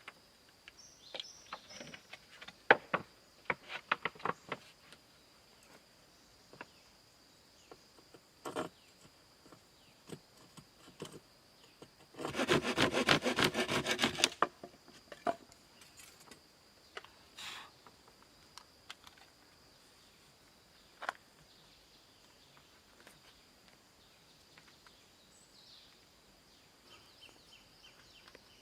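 A steady high-pitched insect drone, crickets or similar, running under scattered sharp knocks. About twelve seconds in comes a loud two-second run of rapid rasping strokes.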